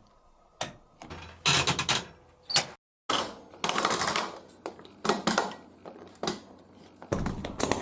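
Rotary program selector knob of an old washing machine being turned through its positions, giving a run of separate mechanical clicks that come faster near the end.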